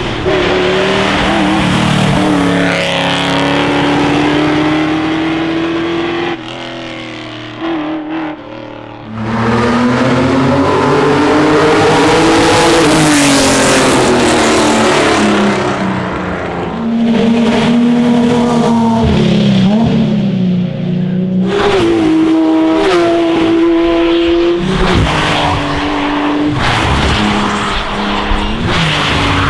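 Classic racing car engines under hard acceleration, one car after another. Each climbs in pitch, then jumps down at the gear changes and climbs again. The sound dips and quietens for a few seconds about a fifth of the way in before the next car comes in loud.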